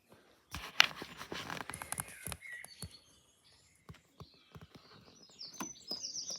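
Small wild songbirds of the dawn chorus chirping and singing, a repeated high song near the end. Over the first two seconds come footsteps or rustling with a sharp click.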